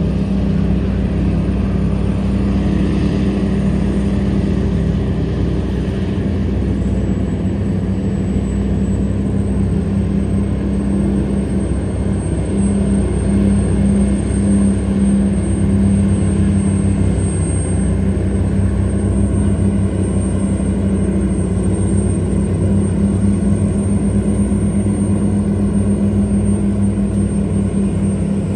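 Tugboat engine running steadily with a deep, even drone, working under load as it tows a loaded cargo barge upstream against the current.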